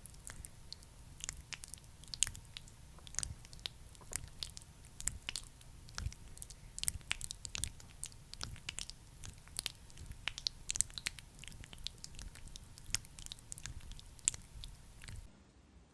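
Sticky, wet crackling of a thick skincare product being worked close to the microphone: quick irregular little clicks and squelches. It stops abruptly about fifteen seconds in.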